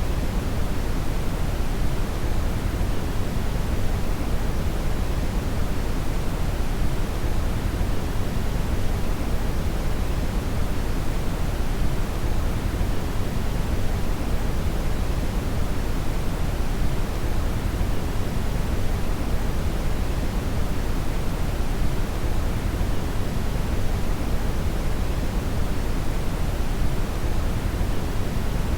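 Steady brown (red) noise: a constant, deep rushing hiss weighted heavily toward the bass, with no changes or events.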